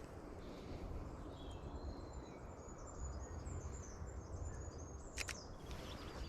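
Songbirds chirping and singing, a quick series of short high notes, over a steady low rumble; two sharp clicks near the end.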